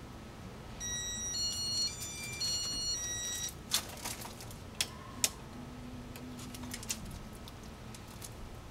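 A short electronic jingle of beeping tones at stepping pitches, like a phone ringtone or alert, lasting about two and a half seconds, followed by a few sharp clicks over a faint steady hum.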